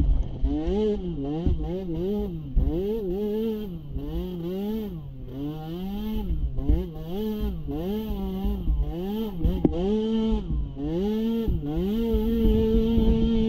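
Small youth ATV engine revving up and down over and over, about once a second, as the throttle is worked, then held at a steady pitch near the end. A few sharp knocks and clatter sound over it.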